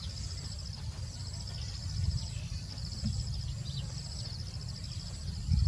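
Insects trilling in repeated bursts of about a second at a steady high pitch, over a continuous low rumble with a few soft thumps.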